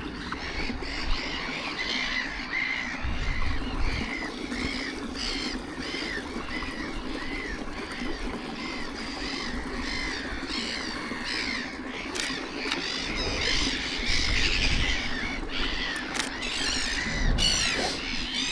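A flock of black-headed gulls calling: many harsh, short squawks repeated and overlapping, growing busier in the second half. A few low rumbles sound underneath.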